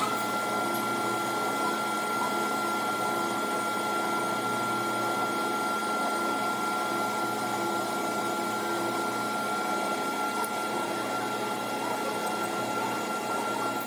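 A small motor-driven machine running steadily, with a constant high whine over its hum. It cuts off suddenly at the end.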